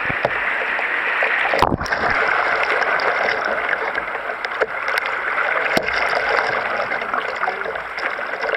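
River water rushing and splashing around a kayak running a small chute, a steady wash of moving water, with two sharp knocks, one near two seconds in and one near six seconds.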